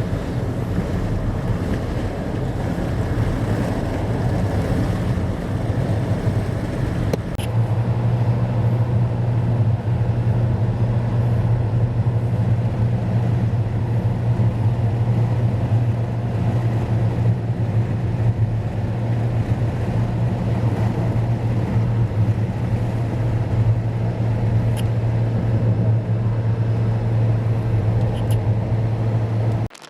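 Car driving on the road, heard from inside: steady tyre and engine noise, with a strong low drone setting in about seven seconds in. It cuts off abruptly near the end.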